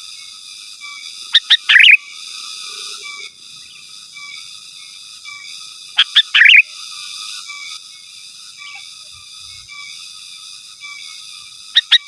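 Sooty-headed bulbul (kutilang) calling: a loud phrase of a couple of quick short notes and a longer warbled note, repeated three times about five seconds apart. The calls sit over a steady high-pitched background drone.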